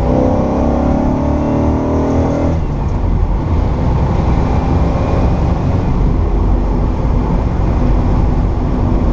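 1964 Pontiac GTO's 389 V8 with Tri-Power carburetion accelerating under throttle, its note rising in pitch. About two and a half seconds in the rising note breaks off, and the engine runs on as a steady rumble.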